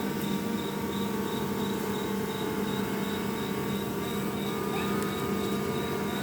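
Honey bees from a colony being fed, buzzing together in a steady, dense hum.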